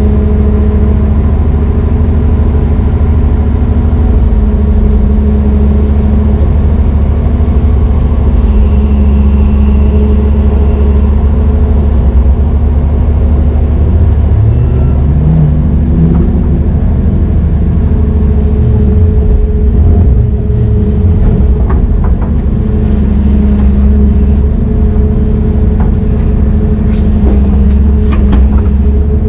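Heavy diesel engine running loud and steady, its pitch rising briefly and falling back about halfway through as it takes load, with a few short clicks later on.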